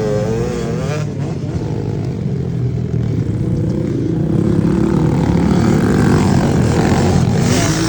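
Several small pit bike engines running together, revving up and down, with one rising in pitch near the end.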